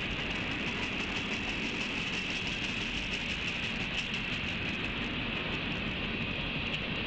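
Freight train cars rolling past, a steady rail rumble picked up through a webcam microphone with a constant hiss over it.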